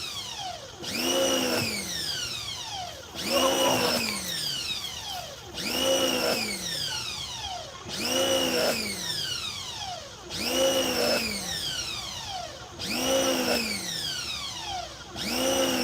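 A wailing alarm-like tone repeating about every two and a half seconds, seven times. Each wail rises quickly, then slides down slowly.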